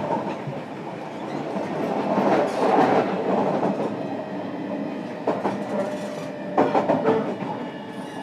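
Running noise inside a JR Kyushu 305 series electric train's motor car under way: a steady wheel-on-rail rumble, with sharp clacks over rail joints a little after five seconds and a cluster of them around seven seconds.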